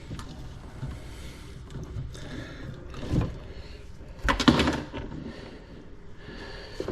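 A few knocks, then a short rattling clatter of handled objects about four and a half seconds in, the loudest part.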